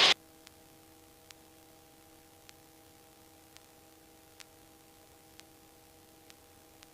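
Near silence: a faint steady hum of a few even tones, with faint ticks about once a second.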